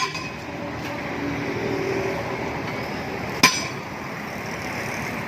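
Two sharp metal-on-metal hammer strikes, one at the start and one about three and a half seconds later, each ringing briefly, over steady background noise.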